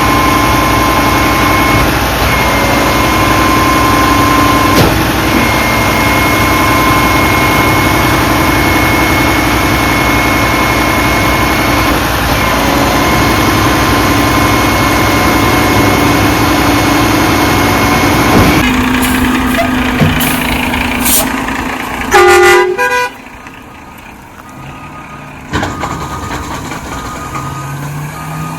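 Garbage truck's engine running loudly at raised revs with steady whining tones over it, dropping off about two-thirds of the way through. A short loud horn honk follows near the end.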